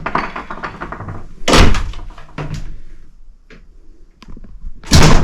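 A door is shut with a thump about a second and a half in, followed by a few small clicks. Near the end comes a loud jolt and a steady low hum starts: a home elevator's motor setting off.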